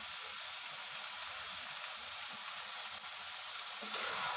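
Keema and fried okra sizzling steadily in a pot on the stove. Near the end a slotted metal spoon starts stirring, and the sizzle gets louder.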